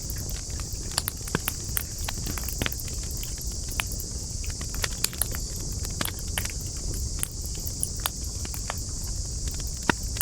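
Campfire of burning wood crackling: irregular sharp pops and snaps, several a second, with a louder pop near the end, over a steady low rumble and a steady high hiss.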